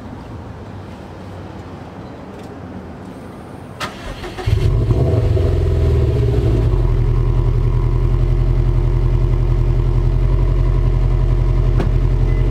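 2018 Subaru WRX STI's turbocharged 2.5-litre boxer four-cylinder starting about four and a half seconds in, after a brief click: it flares briefly, then settles into a steady idle, heard from behind at the exhaust.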